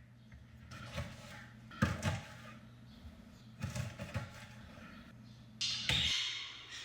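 Several groups of dull knocks and clatters over a low steady hum, the last group with a brief hiss, and the hum stops about six seconds in.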